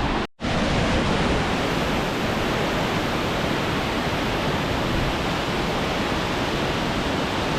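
Waterfall pouring, a steady loud rush of falling water, broken by a brief dropout a fraction of a second in.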